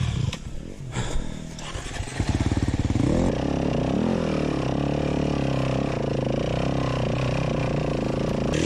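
Dirt bike engine falling to a low, uneven run, then revved hard from about two seconds in and held at steady high revs as the bike climbs a steep hill.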